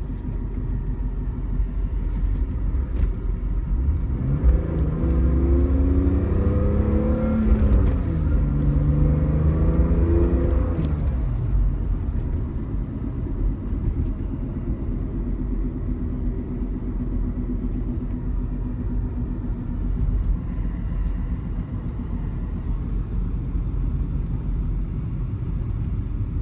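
BMW E46 M3's S54 straight-six engine running. Its pitch climbs, dips and climbs again between about four and eleven seconds in, then drops back to a steady lower note. Somewhere in it is a noise the owner calls weird.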